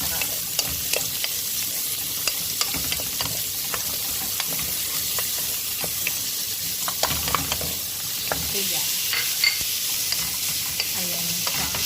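Garlic, ginger and onion frying in oil in a pan, a steady sizzle, with a utensil clicking and scraping against the pan many times as they are stirred to soften the onion.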